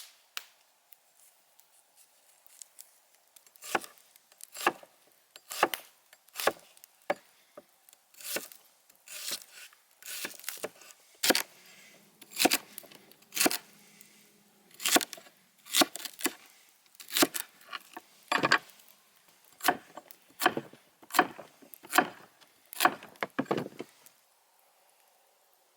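A knife chopping food on a cutting board: sharp strokes, singly or in short runs, about one a second, stopping near the end.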